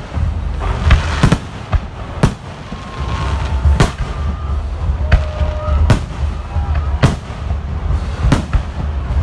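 Fireworks going off: irregular sharp bangs and cracks, about one a second, over a steady low rumble.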